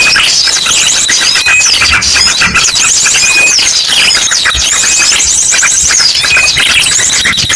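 Bird-lure recording of many small birds calling noisily at once, a dense mix of rapid chirps, trills and short whistles, combined with the rapid calls of an ashy drongo.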